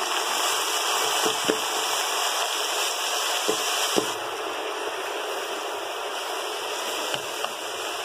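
Wet, freshly washed chopped spinach sizzling steadily in hot oil in a cooking pot as it is tipped in and stirred, with a few light knocks of the colander and wooden spoon against the pot in the first half.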